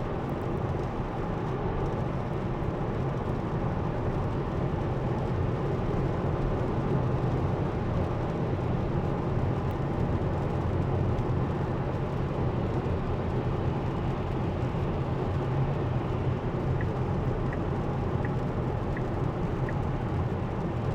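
Steady road and tyre noise inside a Tesla's cabin while driving on wet roads in the rain. Near the end the turn signal starts ticking, about one tick every two-thirds of a second.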